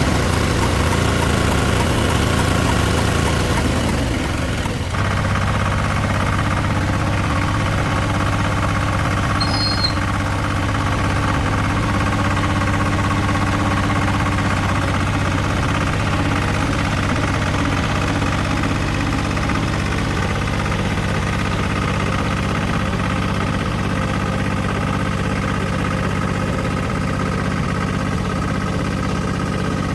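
Restored old tractor's engine running at a steady idle, its note shifting briefly about five seconds in.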